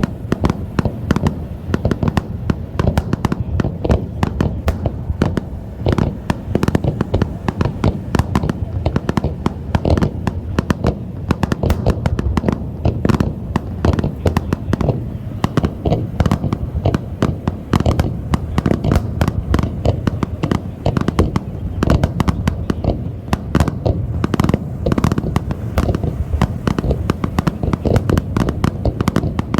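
Fireworks display: a dense, continuous barrage of aerial shell bursts, many booms a second mixed with crackle, with no let-up.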